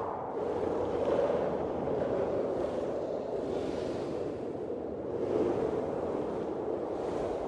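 Blizzard wind blowing, a dense rushing hiss that swells and eases in gusts every couple of seconds.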